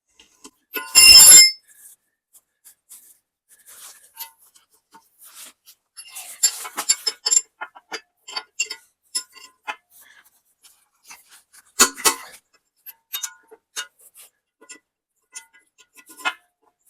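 Blue painter's tape pulled off its roll with a short rip about a second in. Then come scattered light clicks and metallic clinks of handling at the grinder's cutter wheel, with one sharper metal knock later on.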